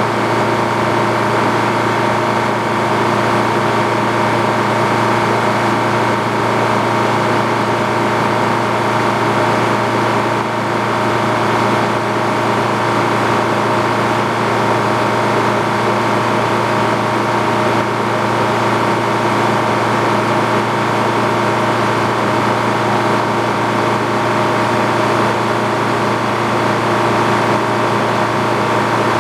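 Engine powering an antique Frick sawmill, running at a steady speed with an even, many-toned hum that holds the same level throughout.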